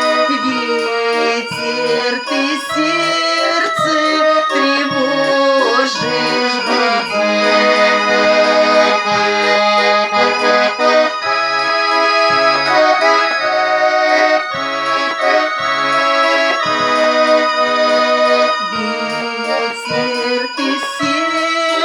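Russian garmon (button accordion) playing an instrumental passage: a reedy melody over sustained chords, with short bass-button notes pulsing at a regular beat underneath.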